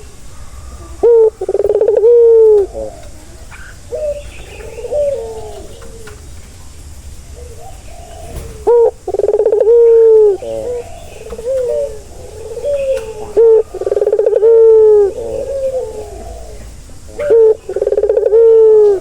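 Male puter dove (Barbary dove) cooing: four loud coo phrases, each about a second and a half long, with softer coos in between.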